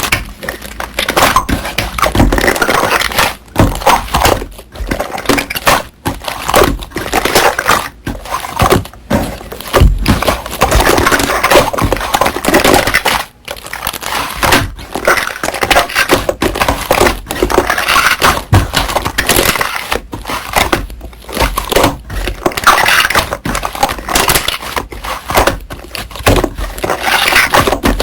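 Hands squeezing and kneading slime: a dense, irregular run of small clicks and squishes with brief pauses.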